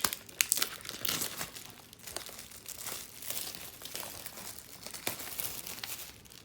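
Plastic shrink-wrap being torn and peeled off a 4K Blu-ray steelbook case, an irregular run of crinkling and crackling.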